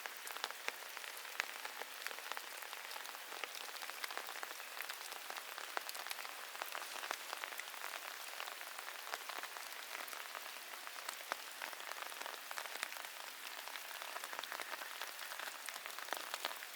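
Steady rain falling, with a constant hiss and many sharp individual drop ticks close by.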